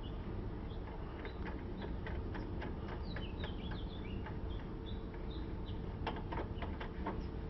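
Small birds chirping in short, quick calls over a steady low hum, with a run of sharp metallic-sounding clicks about six seconds in.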